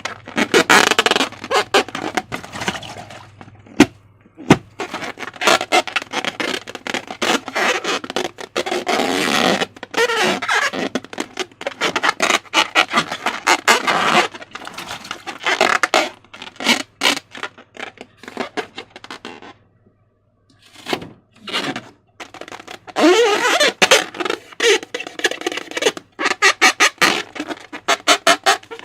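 Slime being squished and worked by hand, giving bursts of rapid wet crackles and clicks, with a short pause about two-thirds of the way through.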